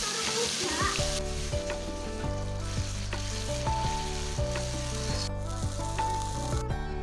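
Blended garlic, shallot and ginger paste sizzling in hot oil in a wok, stirred with a metal spoon. About a second in the sizzle drops sharply, leaving a quieter frying with spoon clicks and scrapes over soft background music.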